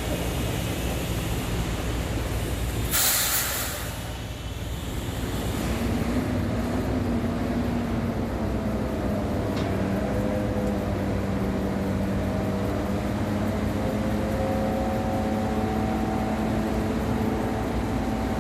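Diesel engine of a Hyundai four-axle dump truck running. A short, loud hiss comes about three seconds in. From about six seconds the engine note rises and then holds steady.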